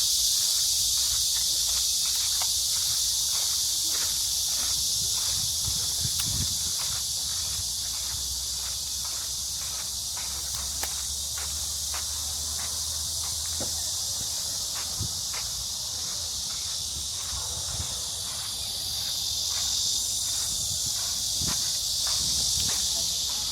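A steady, high shrill chorus of cicadas fills the trees, with footsteps on the path about twice a second underneath.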